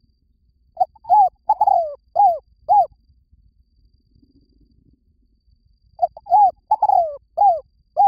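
Spotted dove cooing: two phrases of about five short, falling coos each, a few seconds apart.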